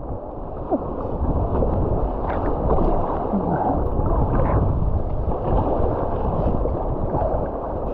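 Whitewater river rapids rushing around a kayak: a steady, dense wash of moving water.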